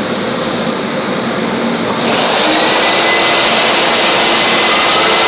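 Steady loud rushing hiss of self-service car wash equipment, growing louder and brighter about two seconds in, with faint steady whining tones through it.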